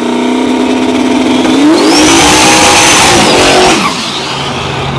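No-prep drag race car's engine held at steady high revs, then climbing as the car launches and passes very loud, with tire noise. The sound drops off sharply about four seconds in.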